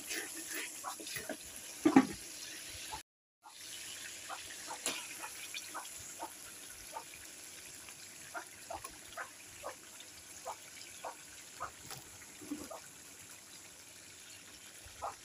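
Spiced onion masala and fish head frying in hot oil in a metal karai: a steady sizzle with small pops a couple of times a second, and a louder knock about two seconds in. The sound drops out briefly about three seconds in.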